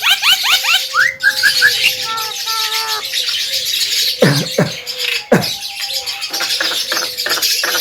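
Javan myna singing: a fast run of repeated rising notes, chattering phrases, a few sharp downward-swooping whistles about halfway through, then a string of short calls, over a faint steady tone.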